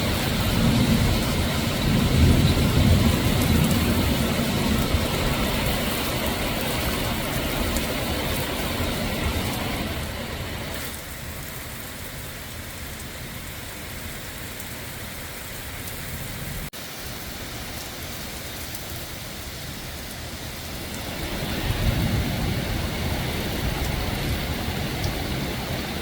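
Torrential rain and wind of a severe thunderstorm, a dense steady hiss with a heavy low rumble. It eases about ten seconds in and builds up again near the end.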